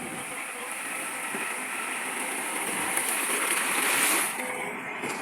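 Rushing, rattling noise of a load of stones pouring and tumbling, as when a dump truck tips its load. It builds up to its loudest about four seconds in, then falls off quickly.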